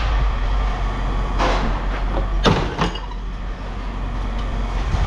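A few scrapes and clunks of scrap metal being handled, over a steady low rumble.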